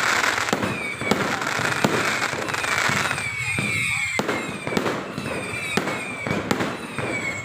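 Fireworks display: a rapid run of sharp bangs from bursting shells, with dense crackling over the first few seconds and many short whistles from whistling fireworks.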